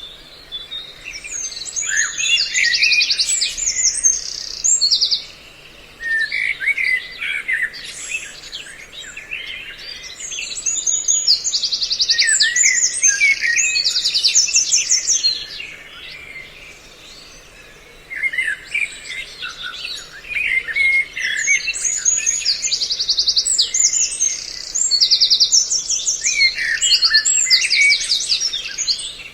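A recorded mix of several songbirds' calls played as a trapping lure: dense chirps and fast, high trills come in repeating bursts, with brief lulls about five seconds in and again about halfway through.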